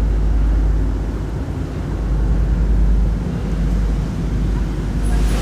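Hurricane wind gusting on the microphone: a loud, heavy low rumble that swells and dips with the gusts.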